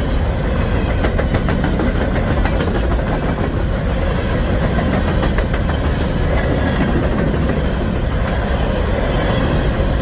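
A long CSX freight train of hopper cars rolling past at speed. There is a steady rumble with quick clicks of the wheels over the rail joints.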